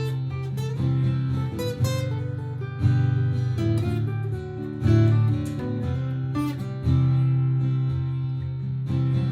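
Martin GPCPA4 acoustic guitar played through a looper: low bass notes ring under strummed chords and single picked notes, with strong new bass notes every couple of seconds.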